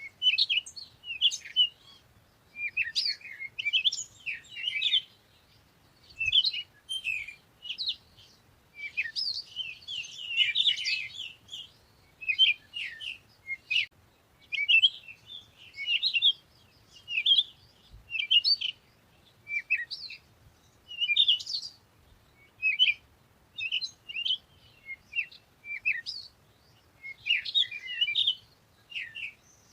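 Songbirds chirping: many short, quick chirps in clusters with brief pauses between them, some overlapping as if from several birds.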